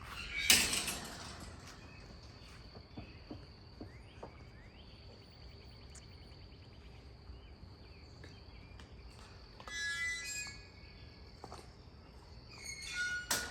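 A steady high insect trill over quiet ambience. A short loud rustling burst comes about half a second in, and a brief high, pitched call about ten seconds in.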